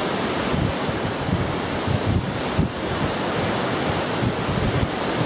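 Strong gusty wind buffeting the microphone: a steady rushing noise with uneven low rumbling from the gusts.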